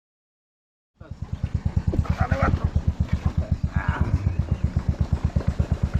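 A small engine running with a steady low thump, about seven beats a second. It starts abruptly about a second in, after silence.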